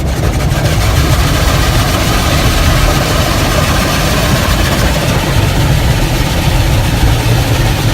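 Automatic car wash's big rotating brushes scrubbing over the car with water spray, heard from inside the cabin: a loud, steady, dense wash of noise with a deep low hum.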